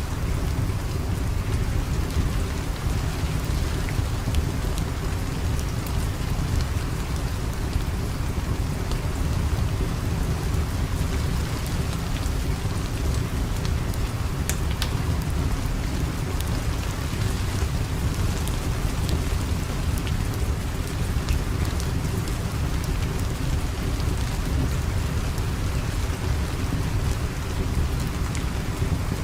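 Steady heavy rain with a deep continuous rumble underneath and scattered sharp ticks and crackles.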